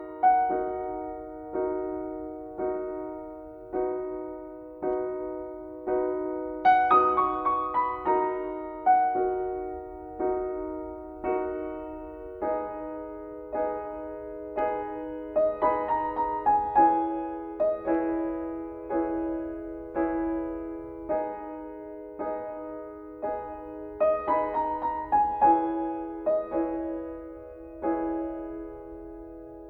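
Slow, gentle piano music: soft notes struck roughly once a second, each ringing and fading.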